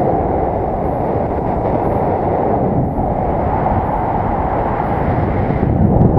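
Strong wind rushing over the microphone: a loud, steady low rumble with no pitched tones.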